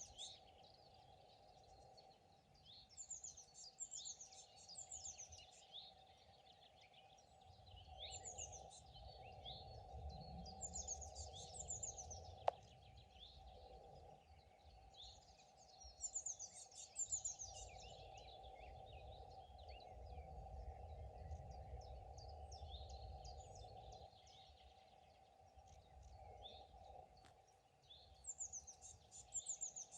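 Faint chorus of several songbirds singing, with quick repeated trills and chirps coming in bursts every few seconds. A low rumble rises in two long stretches through the middle.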